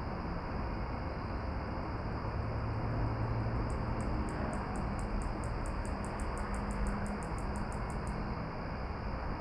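Steady outdoor rushing noise at dusk. From about four seconds in to about eight seconds, a high, quick series of about two dozen even chirps sits on top of it, drawing slightly closer together towards the end.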